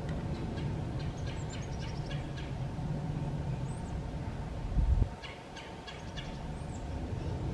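A bird calling in two rapid rattling series, the second just after a brief low thump about five seconds in, over a steady low rumble.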